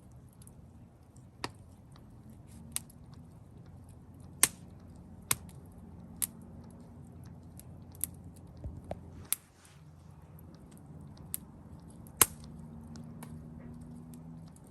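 Wood campfire crackling: about nine sharp, irregular pops and snaps over a steady low hiss of the burning fire, the loudest pops about four and twelve seconds in.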